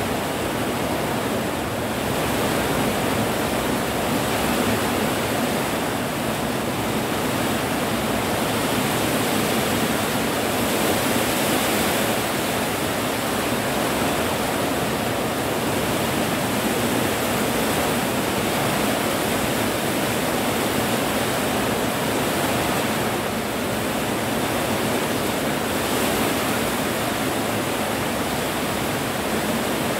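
Rain falling steadily: an even, unbroken rush of noise with no separate drops or thunder standing out.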